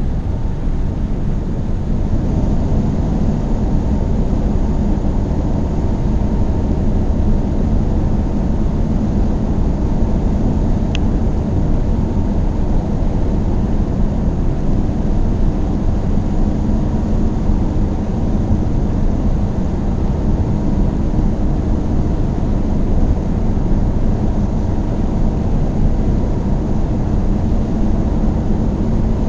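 Car driving at a steady cruise: an even rumble of engine and tyre-on-road noise with a faint low hum, and one brief high tick about a third of the way through.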